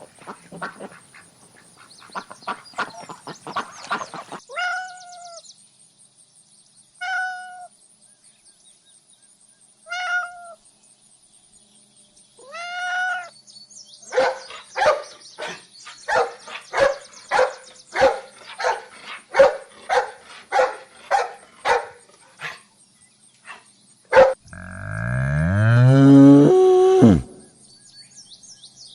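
A run of different animal calls: four short calls a few seconds apart, then a quick series of about a dozen calls at roughly two a second, then one long call near the end whose pitch slides.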